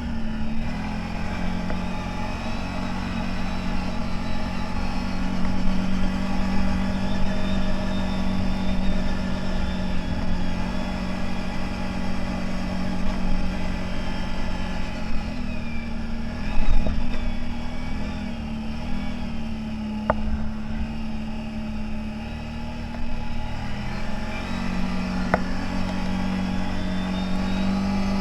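CFMoto 1000 off-road vehicle's engine running under way, its pitch stepping up and down several times as the engine speed changes, with a higher whine gliding along with it and a few short knocks from the ride.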